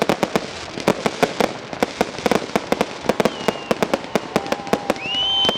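Fireworks going off in quick, irregular bangs and pops, with a steady high whistle starting near the end.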